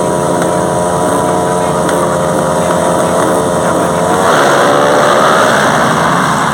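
Several motocross motorcycle engines running at high, fairly steady revs. About four seconds in, a louder, rougher rise in engine noise takes over.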